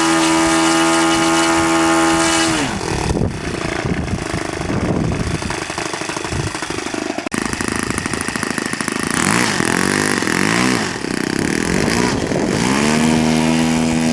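RC model airplane's motor and propeller running at a steady high pitch, then cutting back about two and a half seconds in. Later its pitch rises and falls several times as it moves about, and it settles into a steady tone again near the end.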